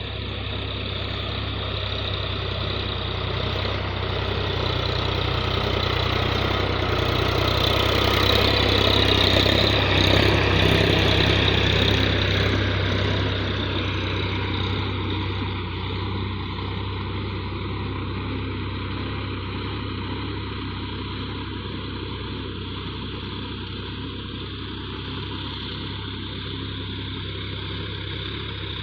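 Solis 4215 tractor's diesel engine running steadily, growing louder over the first ten seconds or so, then easing back and holding a steady note.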